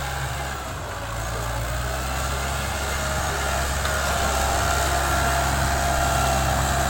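OX 45 tractor engine running steadily, a little louder from about three seconds in.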